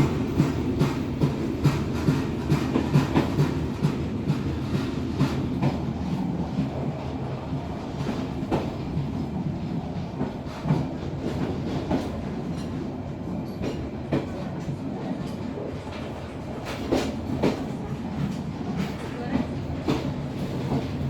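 Passenger train wheels rolling and clicking over rail joints, with a steady rumble under them. The clicks come thick and loud at first, then thin out and the rumble eases as the train slows towards a station.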